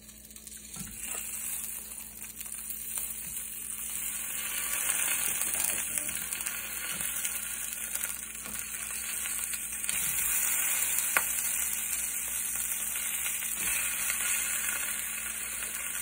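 Baby pak choi halves sizzling in hot oil in a frying pan as pieces are laid in one after another. The sizzle grows over the first few seconds and then holds steady, with a few light knocks.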